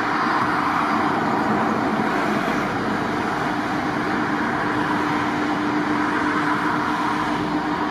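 Jet aircraft engines running: a steady rushing noise with a constant hum, which gets louder right at the start and then holds.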